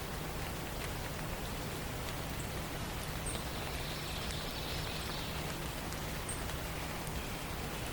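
Forest morning ambience: a steady hiss, with a few faint, very short high-pitched bird chirps scattered through it.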